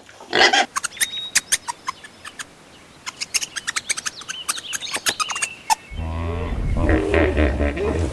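Rapid, short, high chirps and clicks from a small animal or bird. About six seconds in, this cuts to a loud, deep, drawn-out animal call.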